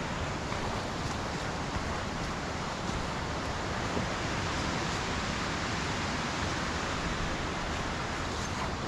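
Steady rushing of a fast-flowing stream, an even wash of water noise with no breaks.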